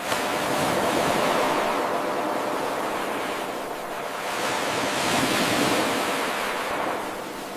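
Ocean waves washing on a shore, played as an 8-second loop. The wash starts abruptly just after the beginning where the loop restarts, then swells and eases off twice before dropping low near the end.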